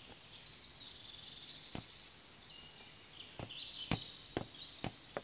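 Birds chirping in a steady background, with several sharp taps scattered through the second half.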